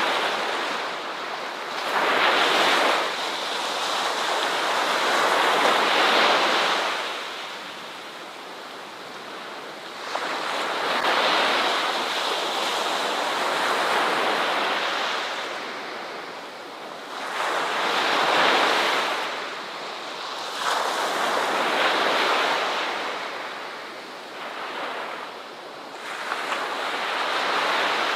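Ocean waves breaking and washing onto a beach, each surge swelling and fading every few seconds in a steady, unhurried rhythm.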